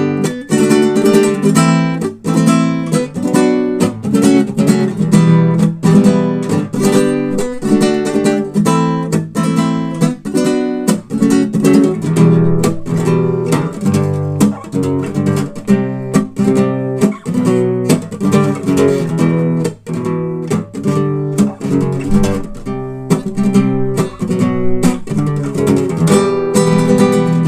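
Acoustic guitar playing an instrumental arrangement of a song, strummed chords and picked notes in a steady rhythm.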